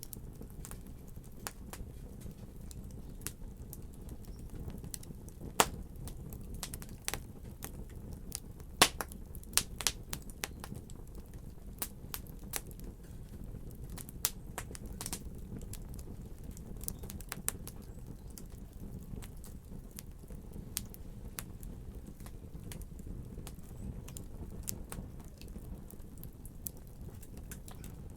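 Wood fire in a fireplace crackling, with scattered sharp pops over a steady low rumble of the flames. The loudest pops come about six and nine seconds in.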